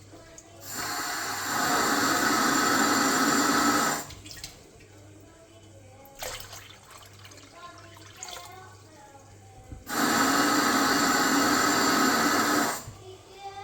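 Water running from a tap in two spells of about three seconds each, each starting and stopping abruptly.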